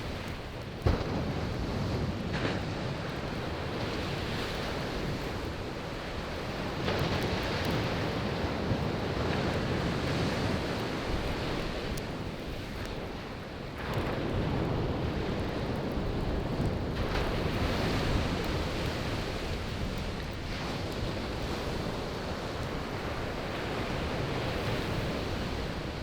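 Sea waves breaking and washing on a shore in slow surges, with a wood campfire crackling over it and one sharp pop about a second in.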